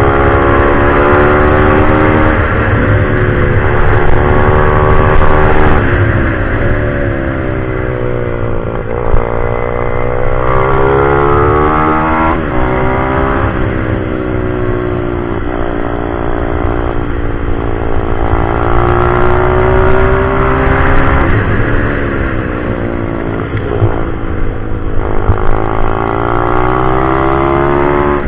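Pit bike's single-cylinder four-stroke engine revving hard, its pitch climbing and dropping repeatedly as it accelerates, shifts and slows for corners on a track.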